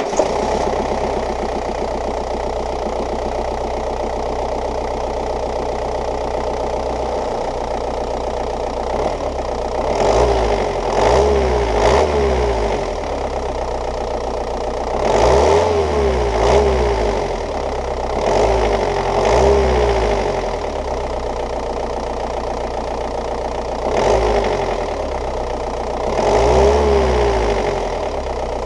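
Ford Focus Mk1 1.8 TDDi diesel engine idling steadily, then revved briefly several times from about ten seconds in, each rev dropping back to idle. The owner suspects a worn engine mount is letting the engine shake and jerk around.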